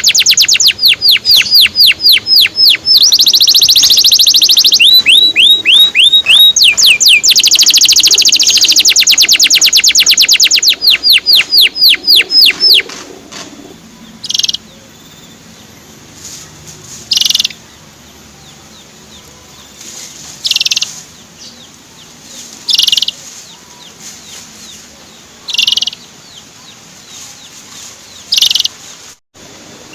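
Male canary singing a fast, loud run of downward-sweeping 'cuit' chirps and trills for roughly the first half. After that it gives single short chirps every two or three seconds.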